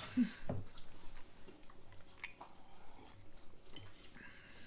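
Quiet chewing with faint small clicks and rustles from people eating at a table.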